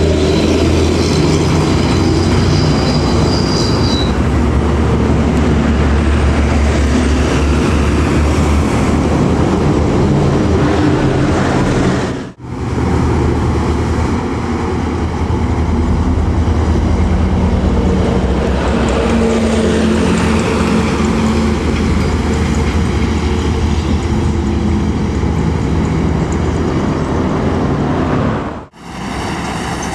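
Large diesel buses driving past at speed: a loud steady engine rumble with tyre and wind rush. The sound drops out sharply twice, about twelve seconds in and just before the end.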